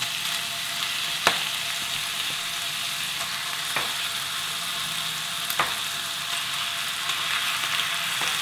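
Pork belly and chopped kimchi sizzling steadily in a stainless steel frying pan, with a bright, even hiss. A few sharp clicks come at intervals of a couple of seconds.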